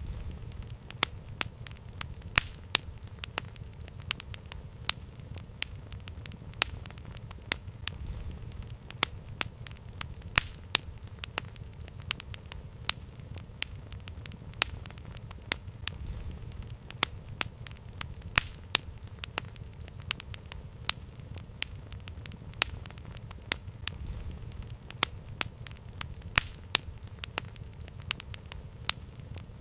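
Campfire burning: wood crackling with sharp, irregular pops several times a second over a low, steady rumble of the flames.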